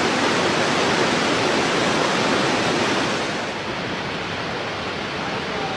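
Water pouring through a dam, a steady, heavy rush. A little past halfway the high hiss drops away and it turns slightly quieter.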